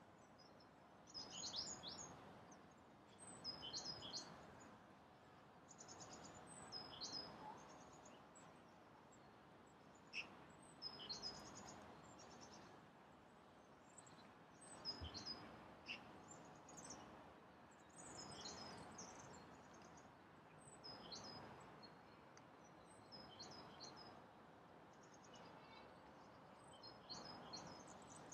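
Songbirds chirping and singing in short, high phrases again and again, faint against a soft steady background hum.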